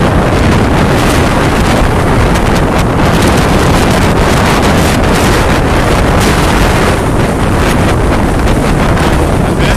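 Storm wind buffeting the microphone, a loud steady rumble with brief crackling gusts, over rough sea surf.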